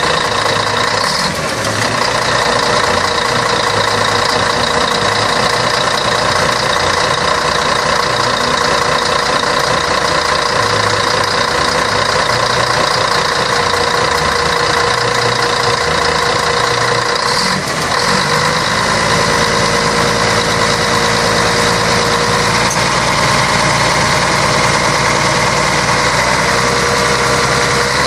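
Scania K113 bus's 11-litre six-cylinder diesel engine running steadily, with two brief dips in the sound, about a second in and about two-thirds of the way through.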